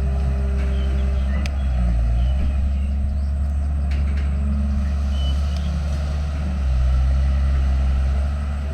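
Diesel engine of heavy earthmoving machinery running, its pitch and loudness rising and falling with the load. Two sharp knocks come about a second and a half and about four seconds in.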